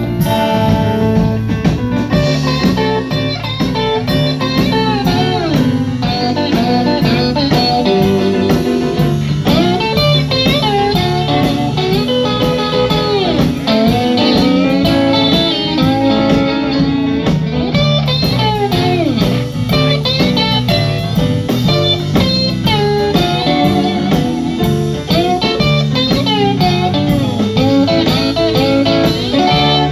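Live blues-rock band playing an instrumental break with an electric lead guitar solo, its notes bending in pitch, over bass and a steady drum beat.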